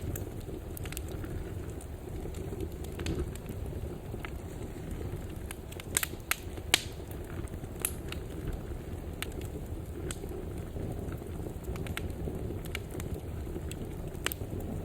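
Fire burning in a fireplace: a steady low rumble of flames with scattered sharp crackles and pops, a few louder pops coming close together about six to eight seconds in.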